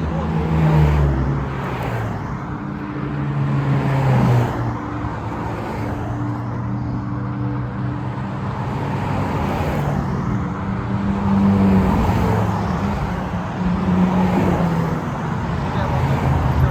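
A line of Ferrari sports cars cruising past one after another, engines running at low revs, each car's engine note swelling and fading as it goes by.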